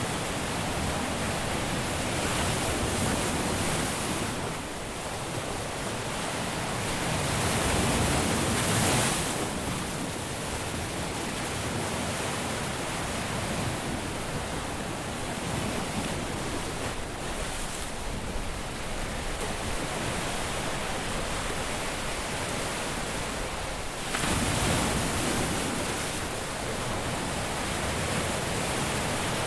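Caribbean surf washing onto a beach: a steady wash of breaking waves that swells louder about 8 seconds in and again at about 24 seconds as bigger waves break.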